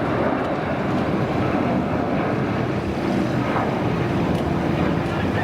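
Airbus A330-300 twin jet engines at takeoff power, a loud, steady roar that holds level throughout.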